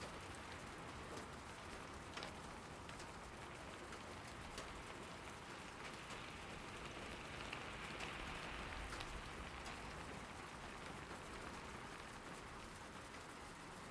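Steady rain falling, with scattered distinct drops ticking out above the hiss; it swells briefly a little past halfway.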